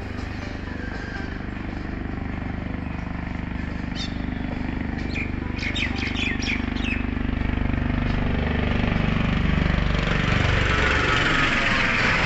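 A long passenger train rolling through the station: a steady low rumble and hum that grow louder, with the hiss of wheels on rail building up near the end. A few short bird chirps sound about midway.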